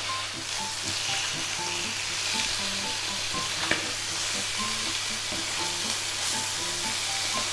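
Chicken thighs sizzling steadily in a hot non-stick frying pan as they are turned over with metal tongs. One sharp tap comes about halfway through.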